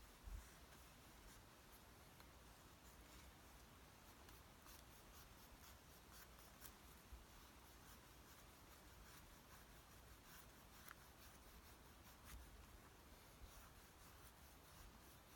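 Faint scratchy scraping of a cheap 100-yen-shop knife, with scattered small clicks.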